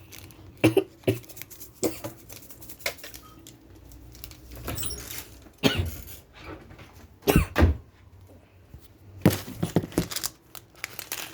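Scattered knocks, clicks and plastic rustling from handling instant-ramen seasoning packets and the cup, with the loudest knocks about two-thirds of the way through.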